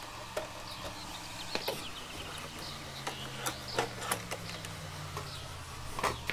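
Scattered light clicks and taps of a pull wire and winch cable being handled and fed through a Jeep's front end, over a steady low hum, with a louder clack near the end.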